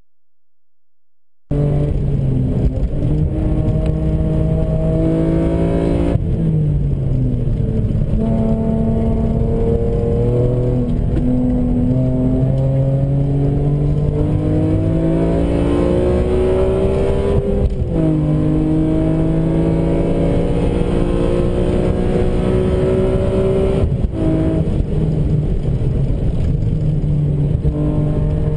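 BMW M3 engine heard from inside the cabin at speed on track, starting suddenly about a second and a half in. Its pitch climbs steadily through the revs and drops sharply at several gear changes.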